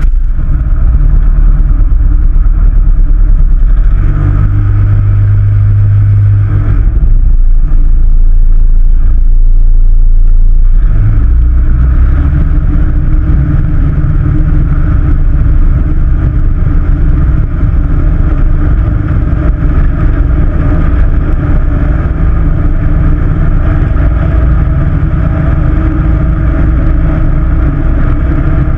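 Cessna 162 Skycatcher's four-cylinder Continental O-200 engine running loudly just after starting. Its note changes a few times in the first ten seconds, then settles to a steady run.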